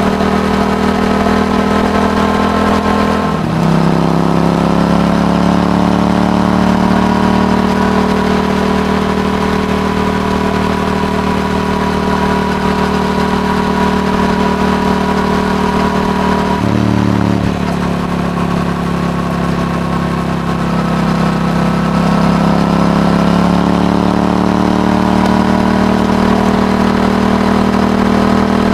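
Yamaha R7's 689 cc parallel-twin engine running through an aftermarket Akrapovic exhaust under way. The engine note drops sharply at gear changes about three and a half seconds in and again a little past halfway, and climbs slowly in pitch between them as the bike picks up speed.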